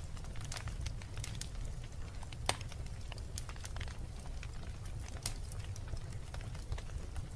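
Wood fire burning in a fireplace: irregular sharp crackles and pops over a steady low rumble of the flames, one louder pop about two and a half seconds in.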